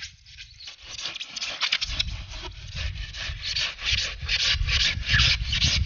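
Hand saw cutting through extruded polystyrene foam insulation board in quick back-and-forth rasping strokes.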